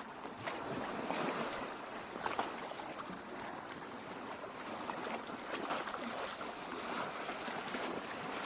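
Small lake waves lapping and splashing against the shore and rocks, a continuous gentle wash broken by many small splashes.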